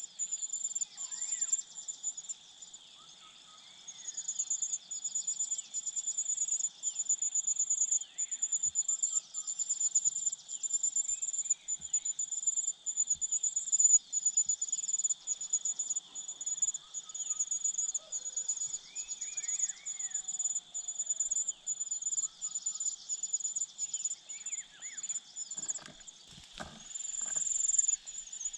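Outdoor insect chorus: a loud, fast-pulsing high buzz over a steady lower drone, with a few faint short chirps. A few knocks or rustles sound near the end.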